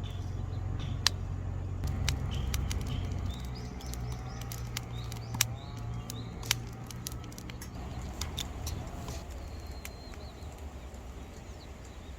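Wood fire crackling in a firewood grill, with sharp, irregular pops, the loudest about a second in and twice in the middle; small birds chirp in the background.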